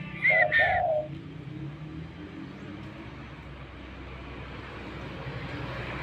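Spotted dove (derkuku) cooing: two coo notes in the first second, then a steady low background rumble.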